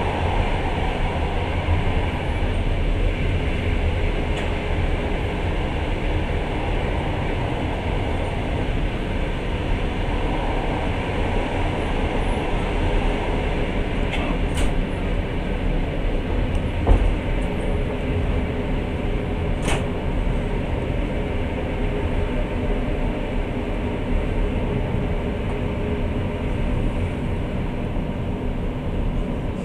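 Long-distance passenger train running, heard from inside the carriage: a steady rumble of the wheels on the rails, with a few short sharp clicks near the middle.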